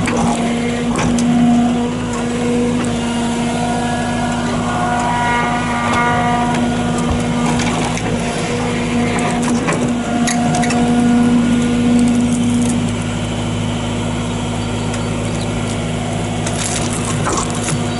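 JCB 85Z-1 8-tonne excavator running under load as it digs at a fir stump. Its hydraulics whine on and off as the controls are worked, with scattered knocks and cracking from the bucket tearing at roots and soil.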